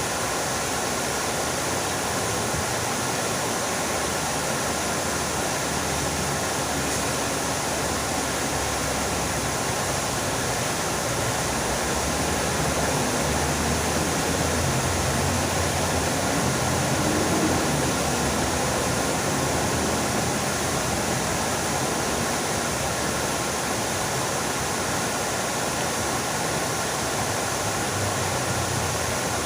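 Fountain water splashing steadily, a constant rushing noise that swells slightly in the middle.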